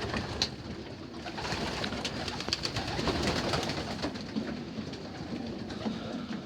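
Young racing pigeons cooing softly, with many small scattered clicks and taps.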